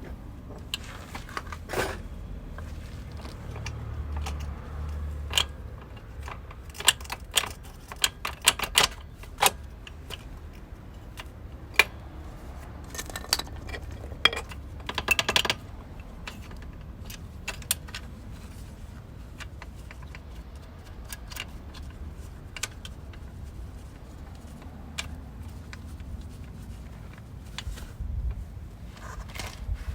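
Metal tools and parts clinking and clicking in irregular bursts during hand work on a motorcycle's rear wheel, over a low steady hum.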